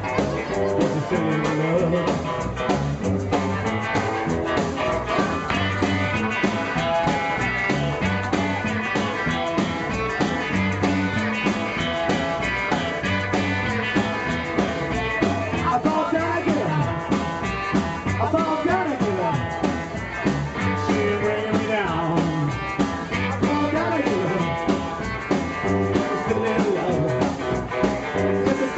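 A rock and roll band playing live, with guitar over a steady beat.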